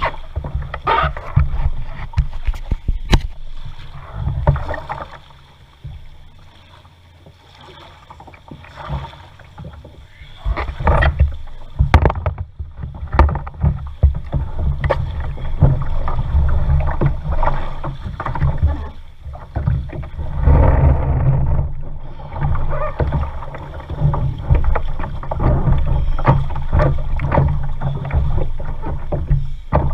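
Kayak paddling: irregular splashes of paddle strokes in the water, with occasional sharp knocks and a heavy low rumble on the microphone, quieter for a few seconds around a quarter of the way in.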